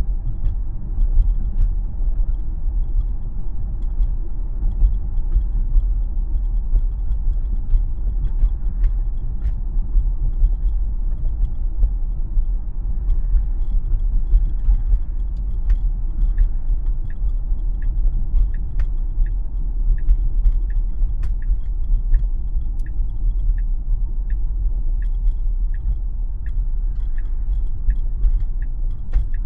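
Steady low road and tyre rumble heard inside a Tesla's cabin while driving. About halfway through, a regular ticking of about one and a half clicks a second starts, the sound of the turn signal.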